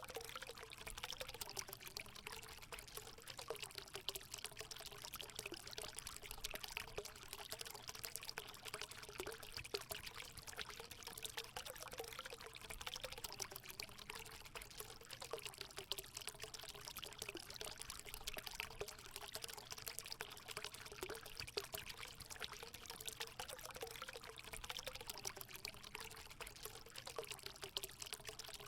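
Water running and splashing steadily into a hot spring pool, a continuous pouring trickle with a faint burbling note that wavers.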